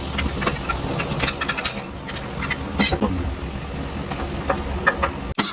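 A car engine running steadily, with many short, irregular clicks and knocks over it.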